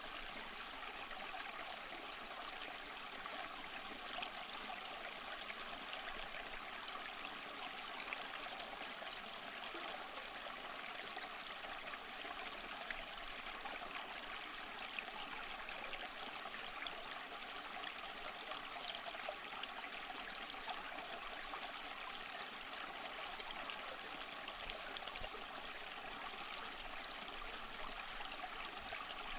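Waterfall running steadily: an even, unbroken rush of water, mostly hiss with little low rumble.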